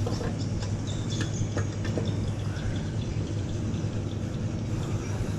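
Honda Winner 150 single-cylinder motorbike engine running with a steady low rumble, with birds chirping over it.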